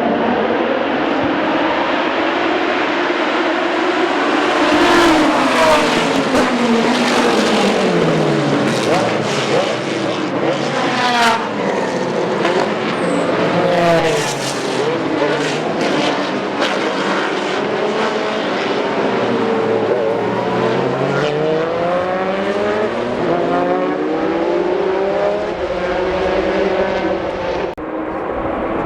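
Several GT racing cars passing one after another at full throttle. Their engine notes climb through the gears with sharp upshifts, then drop in pitch as each car goes by.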